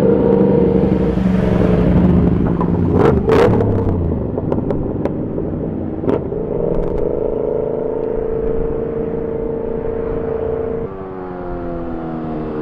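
Superbike engines running and revving, with a few sharp cracks about three seconds in and a steady held engine note in the middle. After an abrupt cut near the end, an engine's pitch falls steadily.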